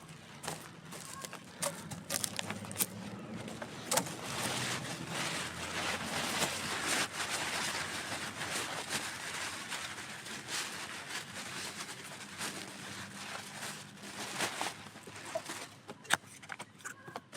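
Wood campfire crackling, with frequent sharp pops over a steady hiss that grows louder through the middle.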